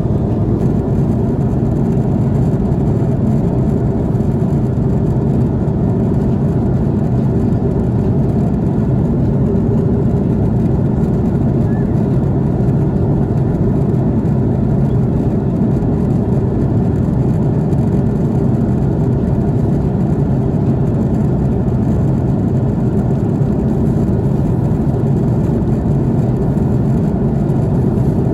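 Steady drone of engine and airflow noise inside the cabin of an Airbus A330-300 airliner in flight. It is a low, even rush that does not change.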